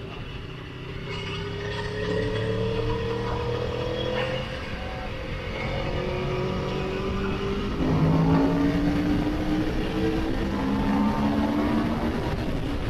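Motorcycle engine accelerating hard, its pitch climbing and then dropping back at upshifts about four and a half and eight seconds in, before climbing again. Steady wind rush lies underneath.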